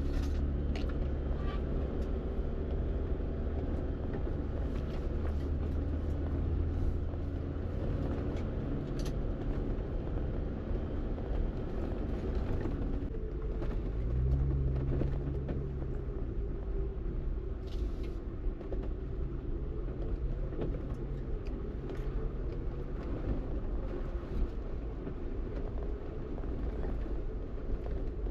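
Jeep engine running steadily under way, a low rumble that picks up for a couple of seconds about halfway through, with scattered light knocks.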